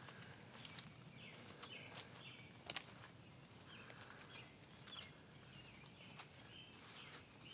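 Faint, scattered bird chirps with a few soft clicks between them.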